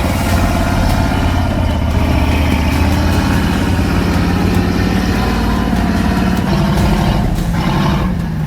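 Heavy truck engine running steadily, its pitch shifting slightly in the last couple of seconds.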